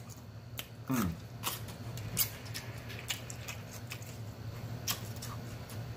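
Close-miked chewing with scattered wet mouth clicks and lip smacks, and a short hummed "mm" about a second in, over a steady low hum.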